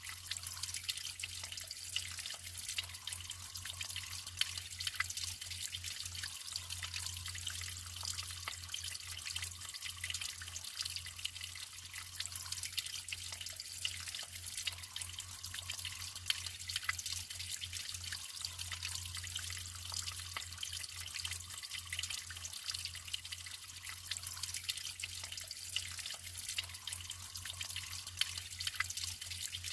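Natural running water trickling and splashing, with many small drips and splashes over a steady rush.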